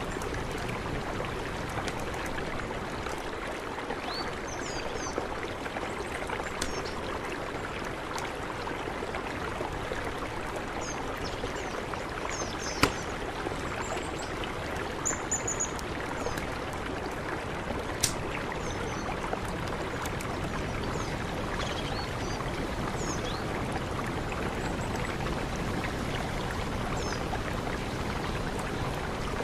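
Mountain river rushing steadily, with brief high chirps of small birds now and then and two sharp clicks near the middle.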